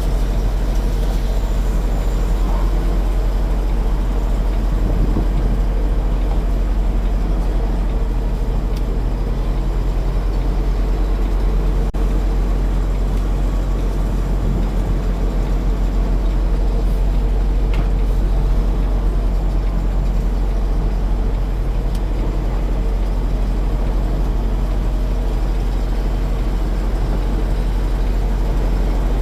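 Semi-truck diesel engine running at low revs, heard from inside the cab, a steady low drone as the rig creeps backward.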